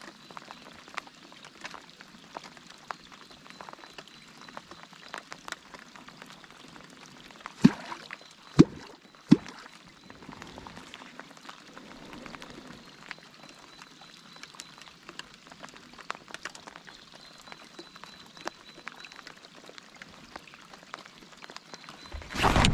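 Light rain falling: many small drop ticks, with three louder knocks about eight to nine and a half seconds in.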